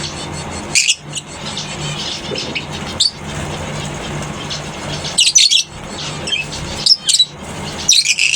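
Lovebirds in a colony aviary giving sharp, shrill screeching calls. The calls come in short loud bursts about five times, in a cluster near the middle and again near the end, over a steady low hum.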